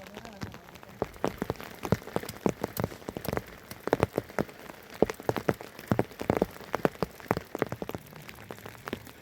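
Rain falling, with large drops striking a surface close by as many irregular, sharp taps over a low hiss of rain.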